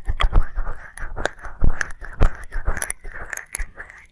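Wet mouth sounds of ASMR ear licking close on a microphone: irregular smacks and clicks of tongue and lips, over a wet hiss.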